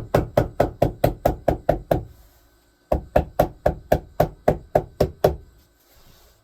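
Staple gun driving staples rapidly through rubber-backed carpet into wood, about six sharp shots a second. There are two runs, with a pause of about a second between them.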